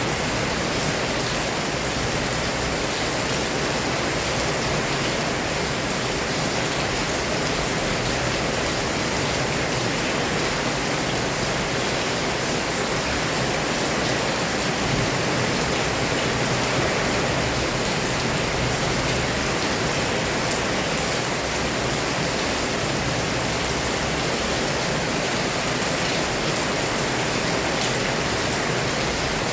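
Heavy rain pouring down, a dense, steady wash of noise that never lets up.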